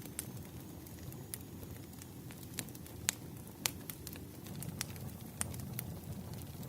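Firewood burning: a steady low rumble of flames with scattered sharp crackles and pops, the two loudest about three and three and a half seconds in.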